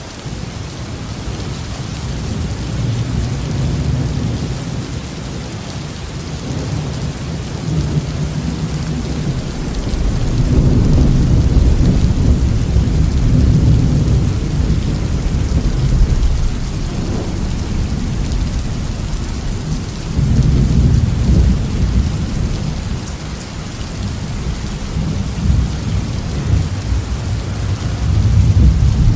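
Heavy rain falling on a roof with deep rolling thunder. The thunder swells in long rumbles, loudest about a third of the way in, again after about 20 seconds and once more near the end.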